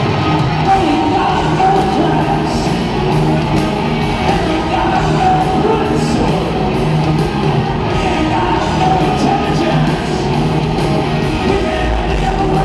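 Hard rock band playing live in an arena, with electric guitar, drums and a singing voice over it.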